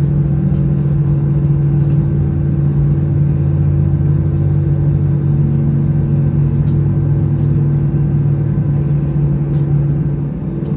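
Steady cabin drone of an Airbus A320 with its CFM56 engines running, heard from inside the cabin: a loud, even low hum with a fixed tone and a few faint ticks and rattles.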